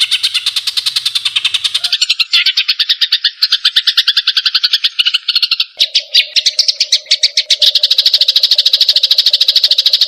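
White-rumped shama (murai batu) singing rapid trills of fast repeated high notes, about a dozen a second, switching to a new phrase about two seconds in and again about six seconds in. A steady low tone joins under the song about six seconds in.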